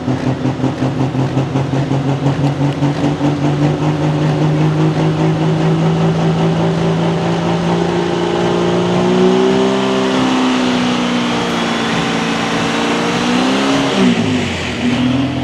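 Super Stock pulling tractor's diesel engine running unevenly, lumpy and pulsing at first, then climbing in pitch about halfway through, wavering and sagging near the end before picking up again: the engine is acting up and won't rev cleanly.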